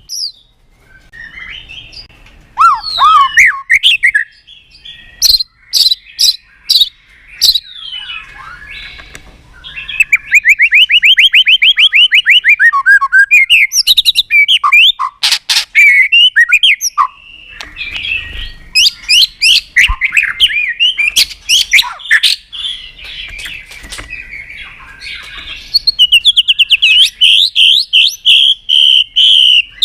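White-rumped shama singing a varied run of phrases: rapid fast trills, sweeping whistled notes and many sharp clicking 'tak' calls, with short pauses between bursts.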